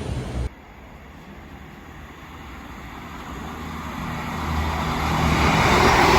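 A train approaching, its engine hum and the rush of its wheels on the rails growing steadily louder. A loud engine sound cuts off abruptly about half a second in.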